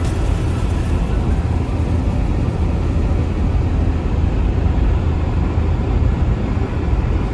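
Steady low rumble of a car driving along, heard from inside the cabin: tyre and road noise with the engine underneath.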